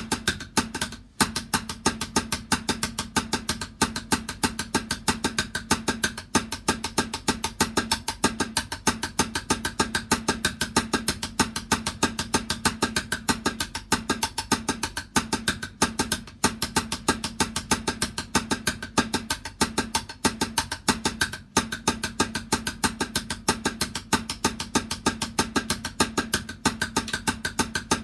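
Drumming: a fast, steady run of strokes, several a second, with the drum ringing between hits.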